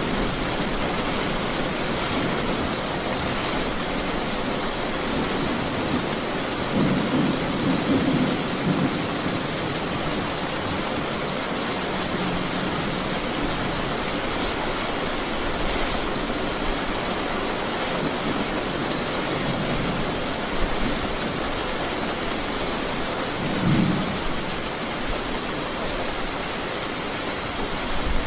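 Steady rain falling, with brief low rumbles of thunder swelling up about seven seconds in and again near the end.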